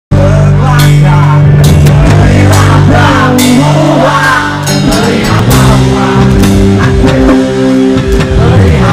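A band playing a rock song: a drum kit with repeated cymbal crashes over sustained electric guitar and bass notes.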